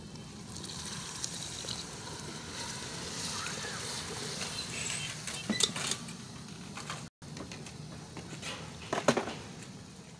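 Water with lentils poured into hot oil and tomato masala in an aluminium pressure-cooker pot, hissing and sizzling as it hits the oil. A wooden spatula clicks sharply against the pot twice, once past the middle and once near the end.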